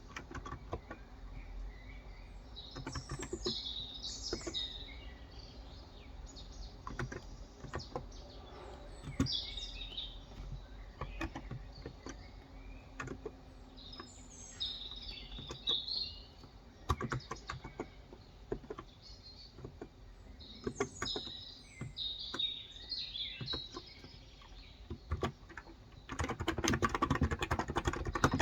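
Typing on a Cox Endeavour electro-capacitive (Topre-style) tenkeyless keyboard with light 35 g keys: scattered single keystrokes, then a fast continuous run of typing near the end. Small birds chirp in short bursts throughout.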